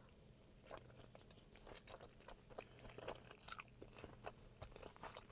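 A person chewing a mouthful of sushi: faint, irregular mouth clicks and smacks.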